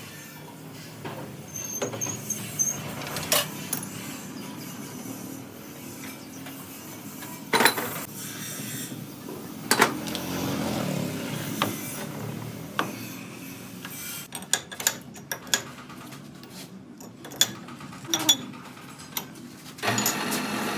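Metal tools and parts clinking and knocking at irregular intervals, with a quicker run of sharp knocks in the second half.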